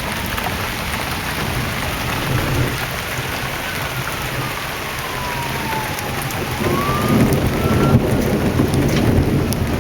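Heavy rain falling steadily, with a low thunder rumble building and growing louder from about seven seconds in, following a lightning flash.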